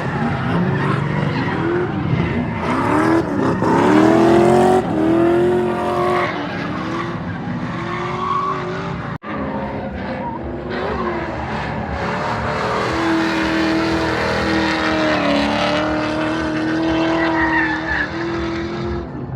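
Drift cars on track: engines revving up and down hard with tyres squealing and skidding, then an engine held at high revs through a long slide in the second half. The sound drops out for an instant about nine seconds in.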